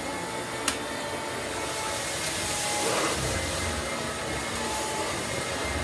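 Upright vacuum cleaner running on carpet: a steady rush of motor and airflow noise with a faint high whine, and one sharp click under a second in.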